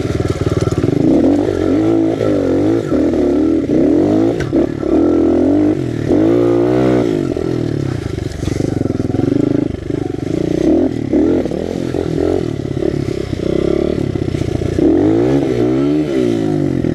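Honda XR100 pit bike's single-cylinder four-stroke engine, fitted with a BBR 120 big bore kit, being ridden hard: its pitch climbs and drops back over and over as the throttle is opened and closed.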